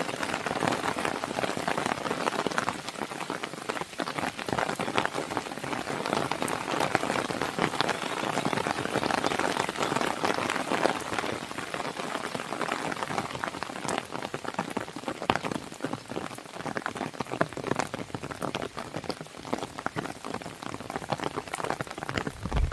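Steady rain on a window mixed with a fireplace fire crackling, many small sharp pops scattered through the even hiss of the rain.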